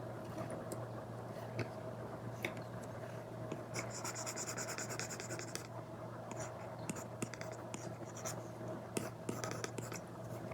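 Apple Pencil tip tapping and scratching on an iPad's paper-like matte screen film while drawing: scattered light taps, with a longer scratchy stroke about four seconds in. A faint steady hum lies underneath.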